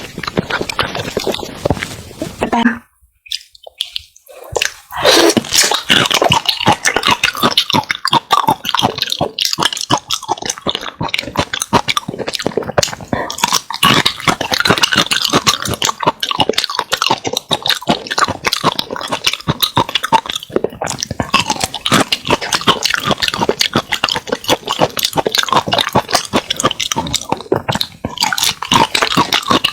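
Close-miked ASMR eating sounds: dense, wet chewing with many quick irregular clicks and smacks, broken by a brief silence about three seconds in.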